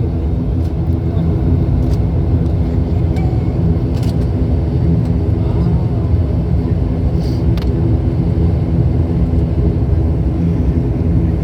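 Steady drone of the ATR 72-500's Pratt & Whitney PW127 turboprop engines and propellers, heard from inside the cabin while the aircraft rolls after landing. It is a continuous low hum with a layered propeller tone, with a few faint clicks.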